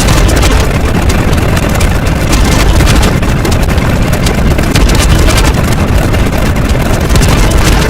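Loud, steady engine-like rumble with a rough, crackling texture.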